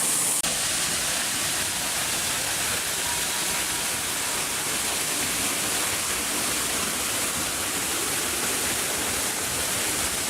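Waterfall rushing steadily, a dense even noise of falling water.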